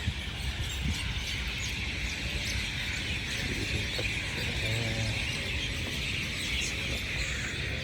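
Birds chirping in a dense, steady chorus, with short higher chirps over it and a faint voice in the distance about halfway through.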